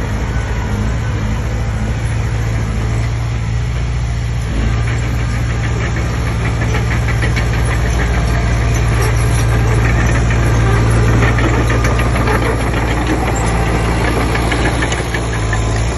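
Komatsu D20P crawler bulldozer's diesel engine running steadily, pulling harder from about four seconds in, with a fast rattle over it through the second half.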